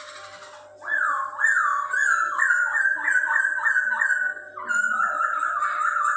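Poksay Hongkong laughingthrush singing a loud run of repeated whistled notes, each one sweeping in pitch. The song starts about a second in and breaks off briefly about four and a half seconds in.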